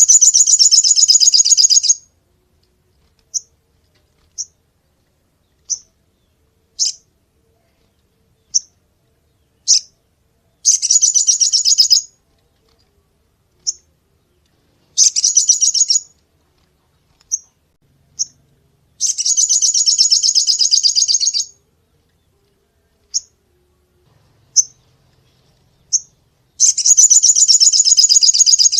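Sogon bird giving loud, rapid rattling trills, the sharp 'shots' prized in bird-keeping: five bursts of one to two seconds each, with short single sharp notes in the gaps between them.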